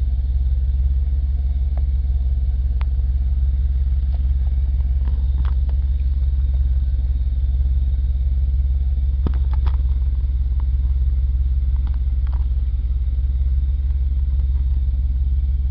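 The 1985 Pontiac Firebird Trans Am's 305 small-block Chevrolet V8, fuel-injected through a two-injector throttle body, idling steadily with a low rumble, heard from inside the cabin. A few faint clicks sound over it.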